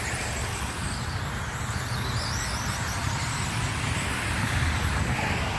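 Several radio-controlled race cars lapping the oval, their motor whines rising and falling in pitch as they speed up and slow down, over a low steady rumble.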